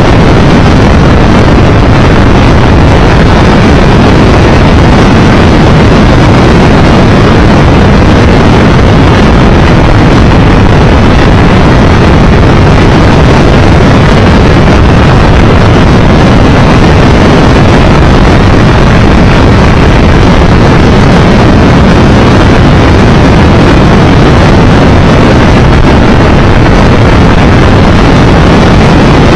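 Triumph Tiger Explorer 1200 motorcycle riding at road speed, heard as a constant loud rush of wind over the microphone with the bike's running underneath, steady throughout.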